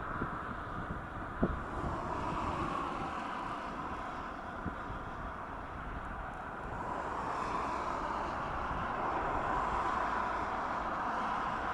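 Jet aircraft engines running on approach: a steady rushing noise that swells a little in the second half. Gusty wind buffets the microphone throughout.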